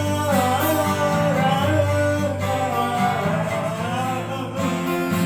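A singer holding long, wavering sung notes over guitar accompaniment.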